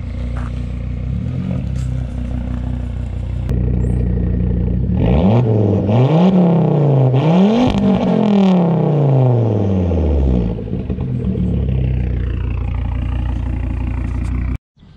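Volvo S60R's turbocharged inline-five engine running as the car rolls in, then revved a few times, its pitch rising and falling, before dropping back to a steady idle. The sound cuts off abruptly near the end.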